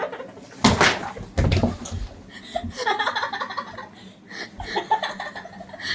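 People laughing, with two loud sudden bursts of noise close to the microphone near the start.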